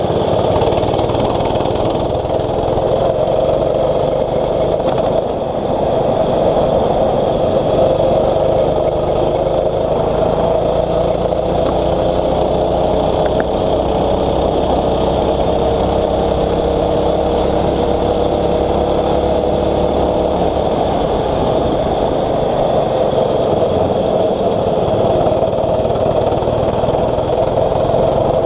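Small 6.5 hp rental-kart engine running continuously, its pitch slowly rising and falling with the revs.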